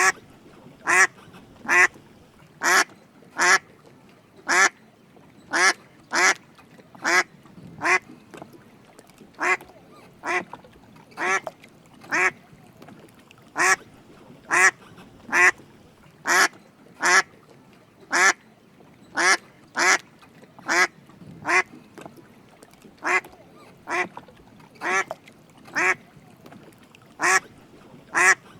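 Drake mallard quacking over and over: short, sharp calls about one to two a second at uneven spacing, often in quick pairs.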